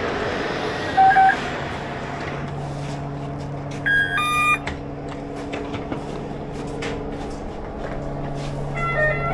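Electronic beeps and a two-note chime inside a public transport vehicle: a short beep about a second in and a louder two-note chime about four seconds in, over a steady low motor hum.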